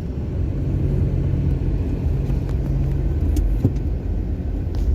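Road noise inside a moving car: a continuous low rumble of engine and tyres, with a steady low hum that fades out about three and a half seconds in and a few faint knocks.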